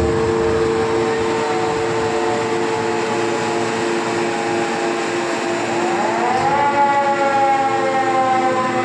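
Wagon tippler equipment giving off a steady whine of two low tones. About six seconds in, a higher tone rises in pitch, then holds and sinks slowly.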